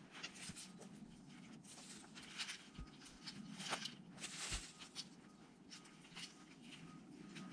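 Faint, irregular crunching and rustling of footsteps in snow and brush being handled, with a few soft low thumps.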